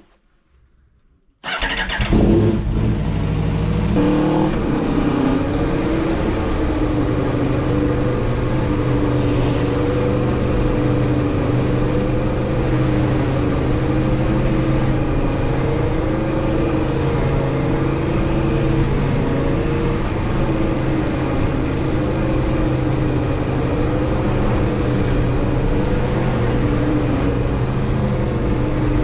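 2016 Aprilia RSV4 RR's V4 engine on its stock exhaust firing up about a second and a half in, running unevenly for a couple of seconds, then settling into a steady idle.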